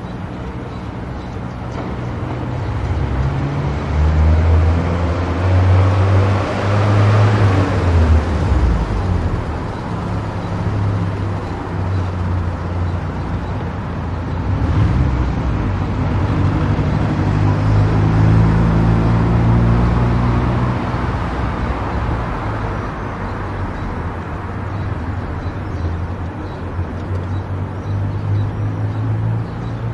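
Car driving on a highway: steady engine hum and tyre and road noise, swelling louder twice.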